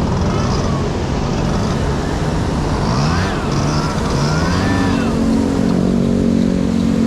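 Two-stroke scooter engine being revved, its pitch rising and falling in quick blips about 3 and 5 seconds in, over a steady run of engine noise.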